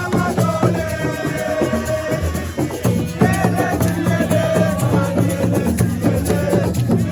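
Live assiko music: drums and a shaker-like rattle keeping a steady beat under a sustained melody line. The band thins briefly about two and a half seconds in, then comes back in full.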